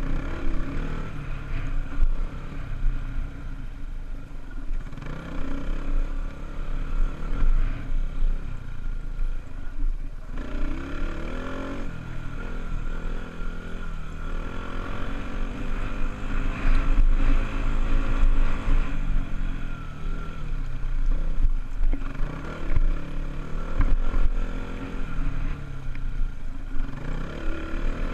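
Honda dirt bike engine running and being revved, its pitch rising and falling again and again as the bike is ridden.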